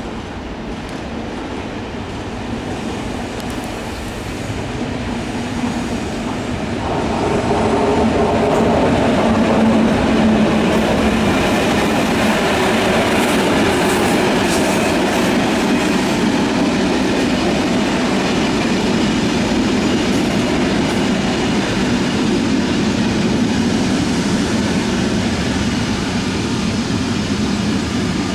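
A passenger train running along the tracks, growing louder about seven seconds in and then holding steady.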